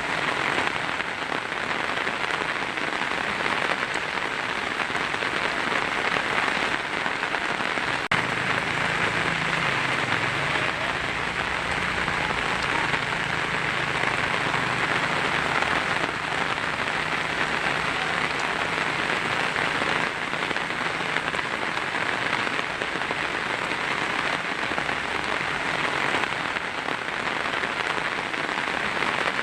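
Heavy rain drumming steadily on a tin roof, an even dense patter with no let-up. One sharp tick stands out about eight seconds in.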